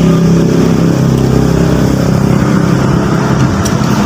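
A motor running steadily with a loud, low hum.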